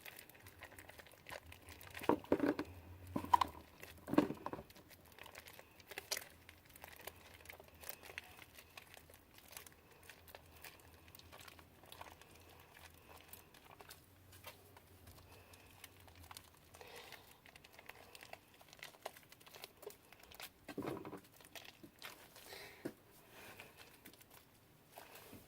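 Hands kneading and pulling sticky homemade glue slime in a bowl: faint irregular crackling, tearing and squishing sounds, with a few louder squishes a couple of seconds in and again later.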